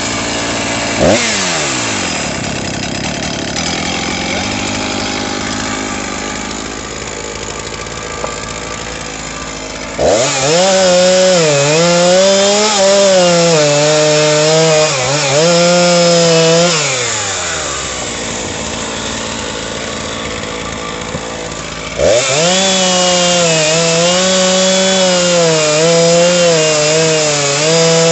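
Two-stroke chainsaw cutting wood: the engine is held at full throttle and its pitch dips and recovers as the chain takes load, in two cuts starting about ten and twenty-two seconds in. Between the cuts it runs lower and quieter, with a quick rev about a second in.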